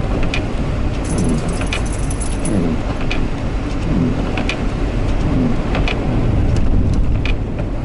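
Steady low engine and road rumble inside a moving semi truck's cab, with a light click about every second and a half.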